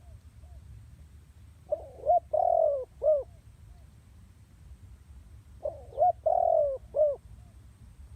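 Female spotted dove cooing: two phrases, each a few short notes around one longer coo, about four seconds apart, with a few faint soft notes at the start. It is the female call that dove keepers and trappers use to rouse a male or decoy dove.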